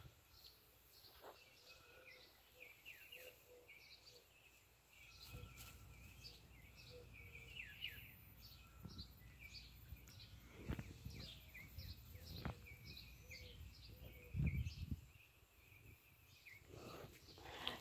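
Faint birds chirping in the background, many short repeated chirps. Occasional low rumbles come in from about five seconds in, the loudest a little before the end.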